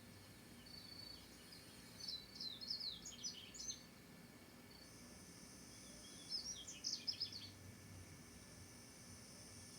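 Small bird chirping faintly in two short bursts of quick high notes, about two seconds in and again about six seconds in.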